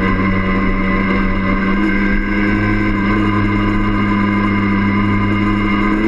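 Yamaha DT50M's small two-stroke single-cylinder engine running under way, holding an even pitch.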